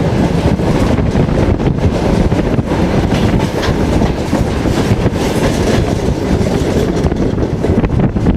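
Passenger railway coach running along the track, heard from its window: steady heavy rumble with wheels clicking over rail joints.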